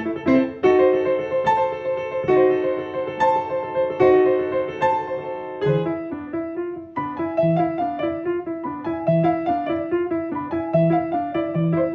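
Piano played in a fast, even stream of notes; about halfway through the figure changes and low bass notes enter at regular intervals.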